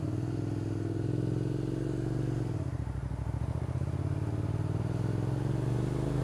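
Suzuki SV650's V-twin engine pulling under way: the note holds, breaks off about two and a half seconds in as it shifts up, then climbs steadily in pitch.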